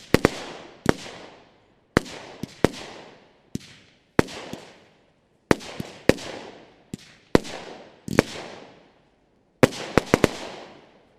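Nordlicht 'Blutgrätsche' 20 mm, 16-shot firework battery going off: a string of sharp bangs at irregular intervals, each echoing away, with a quick cluster of bangs near the end as the battery finishes.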